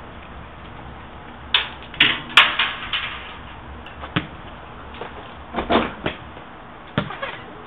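A handful of sharp knocks and clacks, bunched in a quick cluster early on and then spaced out, over a steady hum of room noise.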